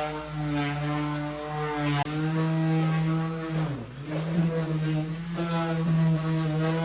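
Electric woodworking power tool's motor running with a steady hum; about four seconds in its pitch dips sharply and recovers, as a motor does when it bogs under load during a cut.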